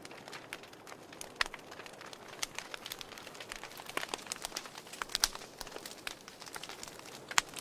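Fire crackling: irregular sharp pops and snaps over a soft hiss, with a few louder snaps, the loudest near the end.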